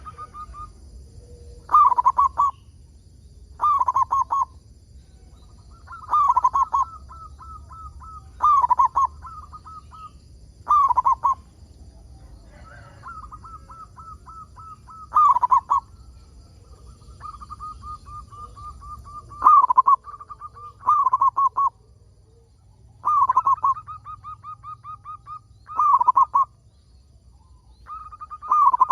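Zebra dove (perkutut) cooing its song: loud phrases of rapid notes around every two seconds, with softer runs of quick repeated notes between them.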